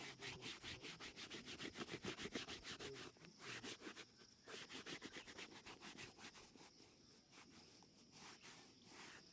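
Quick back-and-forth rubbing strokes on a shoe during shoe shining, about eight to ten strokes a second, with brief pauses and a lighter stretch past the middle.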